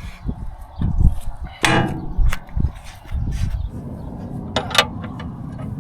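A string of irregular knocks and clunks, the sound of tools and parts being handled against the old bulldozer's metal, the loudest about a second and a half in. A steady low hum comes in about three seconds in.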